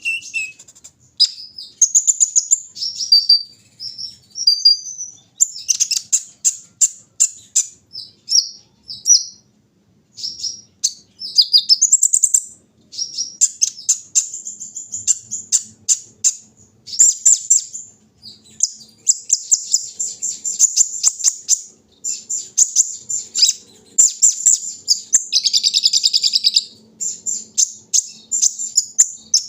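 Kolibri ninja sunbird singing: rapid high-pitched chirps, trills and short sweeping notes in quick, busy phrases, with brief pauses between them.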